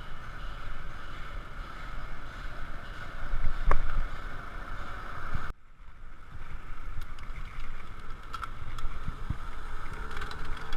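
Wind buffeting a GoPro's microphone on a moving bicycle, a steady low rumble with road and tyre noise, and a sharp knock a little before halfway. The sound cuts out abruptly about halfway through and picks up again straight away.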